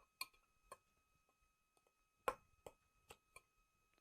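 A handful of light, scattered clicks and clinks of a kitchen utensil against a dish, the loudest about two seconds in, over near silence.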